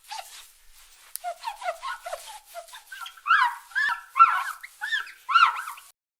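Animal calls: a rapid run of short squawks, many overlapping, growing louder from about three seconds in, played as a sound effect.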